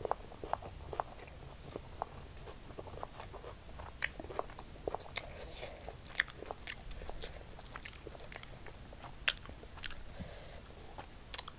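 Close-miked eating sounds: a mouthful of fried rice being chewed, with irregular wet mouth clicks, while fingers work the rice on a banana-leaf plate. The clicks turn sharper and brighter about a third of the way in.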